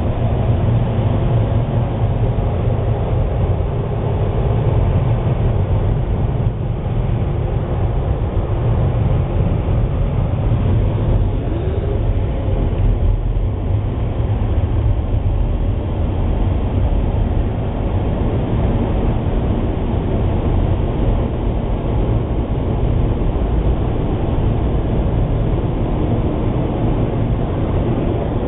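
Automatic car wash air dryers blasting the car, heard from inside the closed cabin as a loud, steady, deep rush of air.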